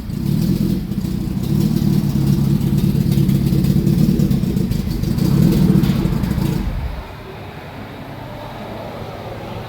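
Turbocharged BMW M50B25 inline-six in an E36, running loud and fairly steady through its new full exhaust, swelling a little near six seconds. At about seven seconds it drops suddenly to a much quieter low hum.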